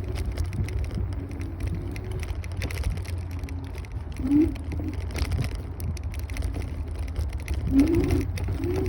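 Wind buffeting the microphone and road rumble while riding a Kaabo Wolf Warrior 11 Pro electric scooter, a steady low rumble. A few short, low, rising tones come through about four seconds in and again near the end.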